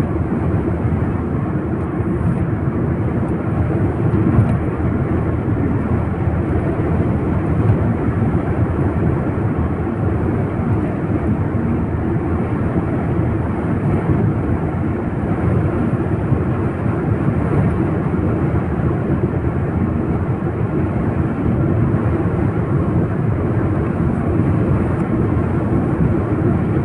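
Steady road and engine noise heard from inside a moving vehicle, a constant low rumble.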